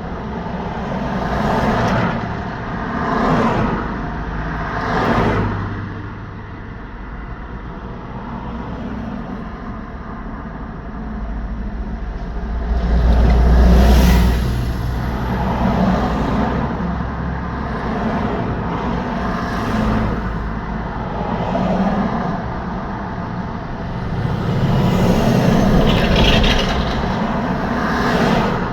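Road traffic: cars and trucks passing one after another, each swelling and fading with tyre noise over a steady hum. The loudest pass, with a deep rumble, comes about halfway through.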